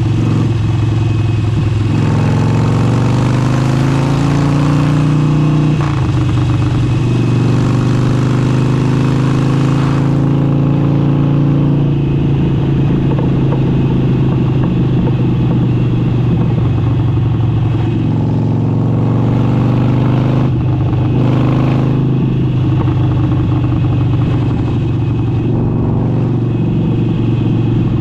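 Harley-Davidson Forty-Eight's 1200 cc V-twin running through an aftermarket exhaust while riding. The engine note climbs for a few seconds under acceleration, drops back about six seconds in, then holds steadier with smaller rises and falls.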